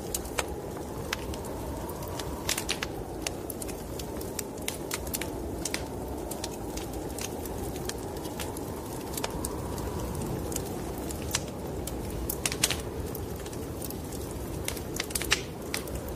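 Wood fire crackling, with irregular small clicks and a few sharper pops, over a steady low whoosh of snowstorm wind that swells gently now and then.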